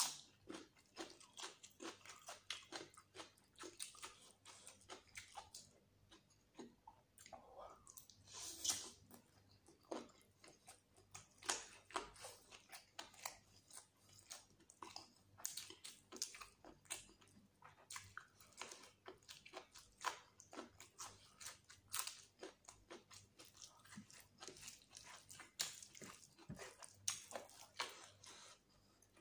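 Close-up eating sounds of a person eating rice and chicken curry by hand: steady chewing with many short, wet mouth clicks and smacks, and fingers mixing rice and gravy on the plate.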